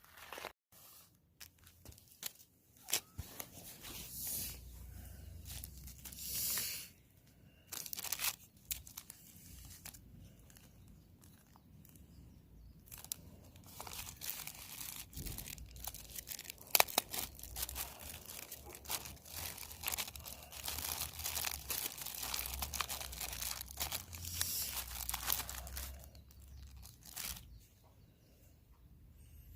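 Irregular handling noises: tearing, crunching and crinkling with scattered sharp clicks, busiest through the second half.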